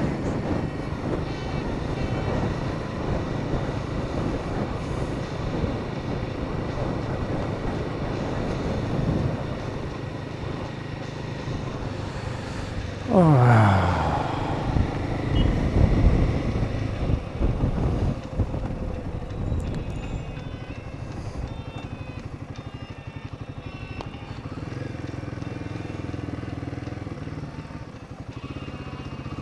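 Royal Enfield Himalayan 450's single-cylinder engine running under way, with wind and road noise. About halfway through, a loud tone drops sharply in pitch over about a second, followed by a few seconds of louder, uneven noise.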